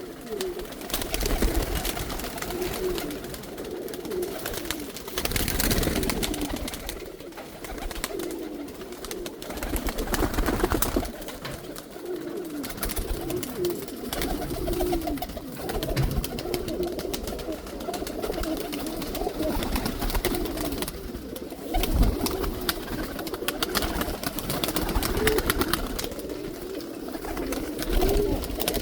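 Male domestic pigeons cooing over and over, low warbling coos overlapping one another, with a few low rumbles along the way.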